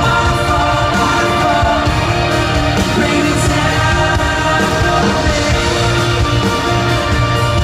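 Live band playing a rock-style worship song with a lead vocal singing over it, loud and steady.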